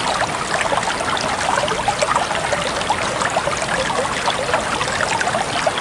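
Water trickling and babbling steadily, like a small stream, with many quick little splashes.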